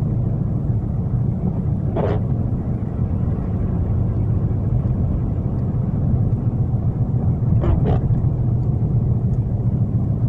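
Steady low rumble of a car driving, heard from inside the cabin, with one short sharp sound about two seconds in and two more close together near the end.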